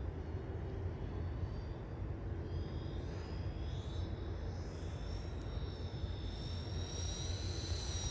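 Electric ducted fans of a foam RC Boeing 737 model whining in flight. The high whine comes in a few seconds in and grows louder toward the end, creeping slightly up in pitch, over a steady low rumble.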